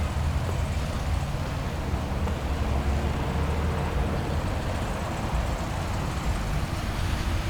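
Exhaust of a GM 3400 V6 idling steadily at the chrome exhaust tip, a low, even rumble.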